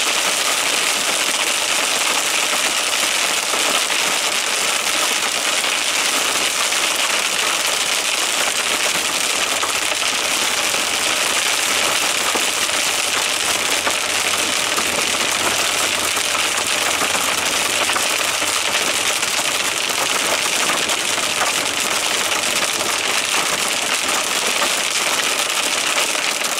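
Heavy rain and hail pelting down, a steady, dense clatter of many small impacts, with a low engine hum underneath.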